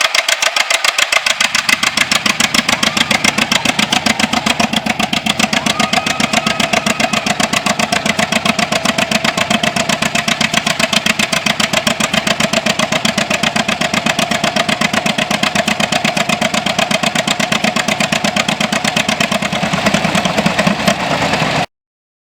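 1938 John Deere G two-cylinder tractor engine running with a steady, even firing beat, then cutting off suddenly near the end.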